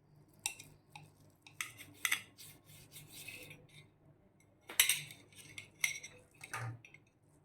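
Cutlery clicking and scraping against a plate while a soft cream-filled pancake cake is cut, in irregular short strokes. The loudest clatter comes about five seconds in.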